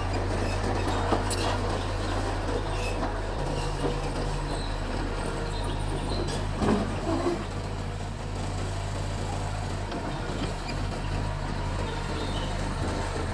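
Mitsubishi bulldozer's diesel engine running with a steady low note, with a few light knocks over it.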